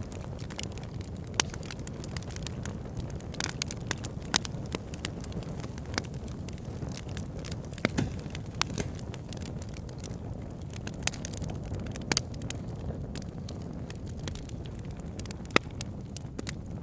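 Wood fire burning in a fireplace: a steady low rumble of flames with irregular crackles and several sharp pops from the burning logs.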